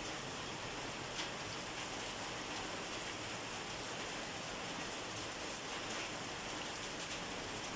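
Steady rain falling, an even hiss with no let-up, and a single faint drop tick about a second in.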